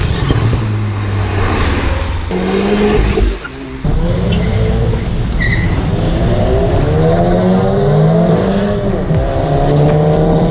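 Car engines revving and accelerating hard, the pitch climbing again and again through the gears, in a run of separate clips that cut abruptly about two and four seconds in.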